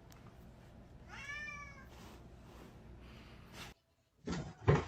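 A domestic cat meowing once, a drawn-out meow that rises and then falls in pitch, about a second in. Near the end there are a couple of short, louder thumps.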